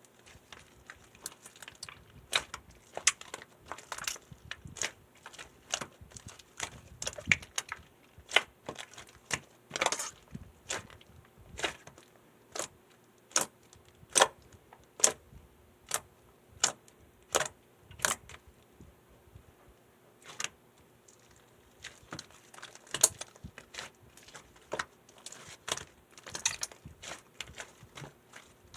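Slime being pressed and squeezed by hand, giving sharp clicking pops at about one or two a second, irregularly spaced, with a short pause a little past the middle.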